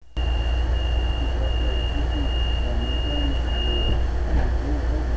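Steady low rumble inside a Metrolink passenger train standing at a station platform, with a steady high-pitched electronic tone that stops about four seconds in.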